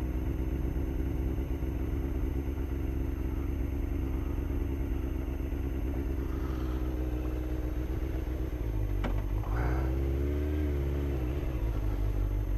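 Motorcycle engine running at low speed, a steady drone. About nine seconds in there is a sharp click, followed by a brief rise and fall in engine pitch.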